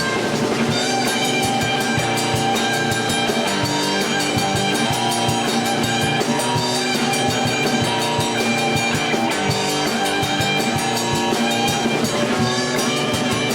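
A rock band playing, with guitar and drum kit, in a stretch without singing.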